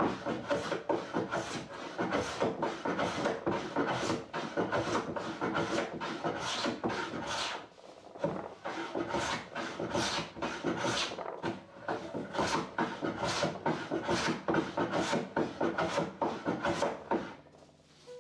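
Hand tool rubbing over the wood of an old door in quick back-and-forth strokes, about two to three a second, smoothing an uneven edge. The strokes break off briefly about eight seconds in and stop near the end.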